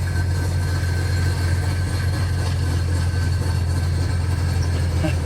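1965 Chevy C50 grain truck's 292 cubic inch inline-six running as the truck drives, a steady low drone.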